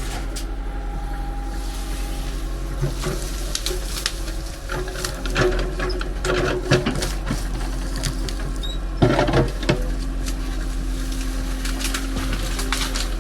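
A steady low hum with scattered clicks and knocks, and a cluster of louder knocks about nine seconds in.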